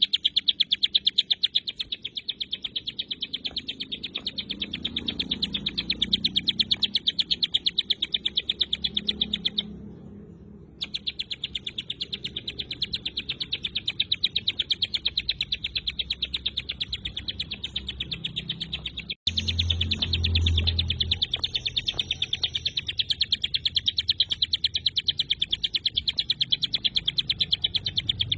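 Ciblek gunung, a prinia, singing a rapid-fire run of sharp chip notes, several a second. The run stops for about a second around ten seconds in and breaks off abruptly a little before twenty seconds, then carries on.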